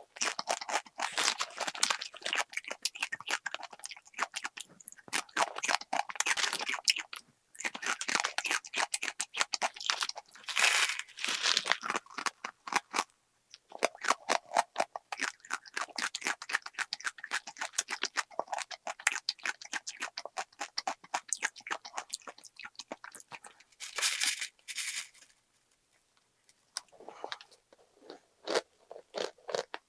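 Close-miked crunching and chewing of a crisp, dry snack: rapid runs of sharp crackles with short pauses between mouthfuls. Near the end the crunching stops for a moment, then sparser, softer clicks follow.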